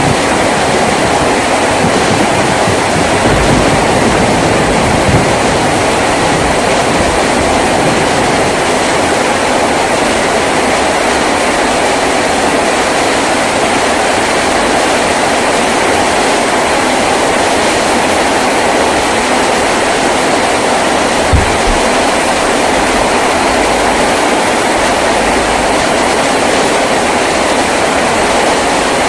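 Heavy rain drumming steadily on a tin roof, a dense, even wash of sound. There is one brief low thump about two-thirds of the way through.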